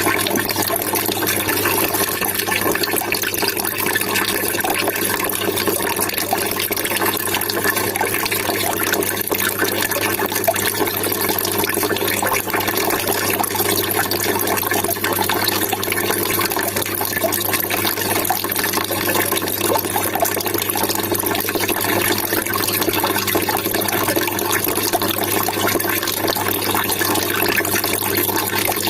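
Water trickling and splashing steadily, without let-up.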